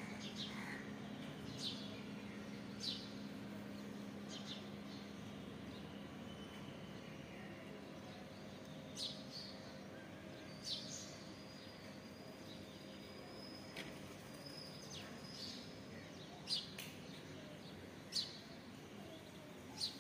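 Small birds chirping: short, sharp, high chirps every second or two, the loudest near the end, over a steady outdoor background with a low hum that fades out over the first several seconds.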